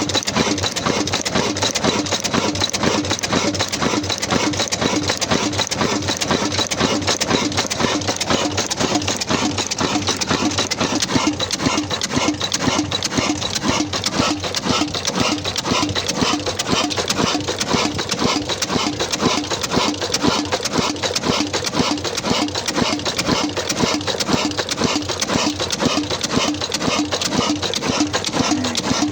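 Old black Ruston diesel engine running steadily with an even, rhythmic beat while working a tube well pump.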